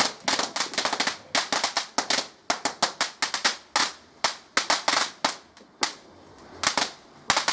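Fireworks crackling: a rapid, irregular string of sharp cracks and pops. They ease to a short lull about three-quarters of the way through, then start again.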